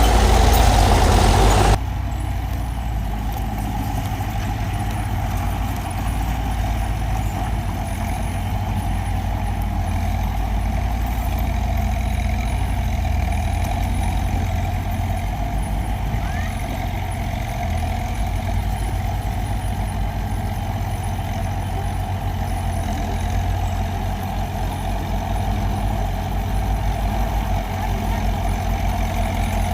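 Heavy diesel engine of earthmoving machinery running steadily. A louder engine sound cuts off suddenly about two seconds in, and a steadier, quieter run follows.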